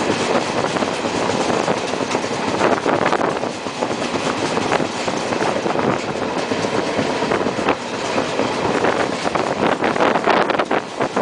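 Passenger train running at speed, heard from an open coach doorway: a steady rush of wheel and air noise with wheels clacking over the rail joints. The clacking grows denser near the end.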